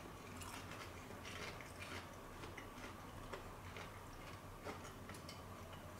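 Quiet chewing of crisp-breaded Lyoner sausage: faint, irregular crunchy clicks over a low steady hum.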